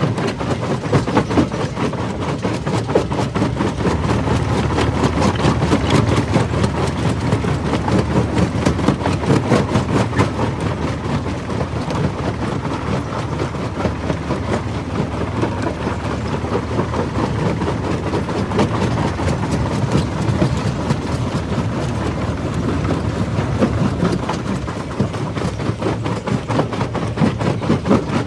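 Jaw rock crusher running under load, a steady low rumble with a continuous rapid, irregular crunching and knocking of stone being broken between the jaws.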